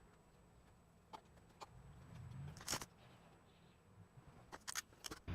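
Faint clicks and knocks over a quiet low hum: a few scattered single taps, the loudest about halfway through and a quick pair near the end.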